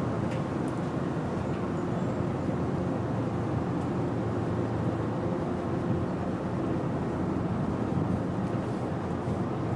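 Steady drone of a ship's machinery running, with a few faint steady tones in it.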